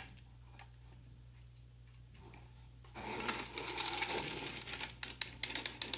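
Carriage of a 3D-printed plastic flatbed knitting machine sliding across the needle bed, its cams pushing the plastic needles along with a rattle of small clicks. It starts about halfway through and ends in a quick run of sharp clicks.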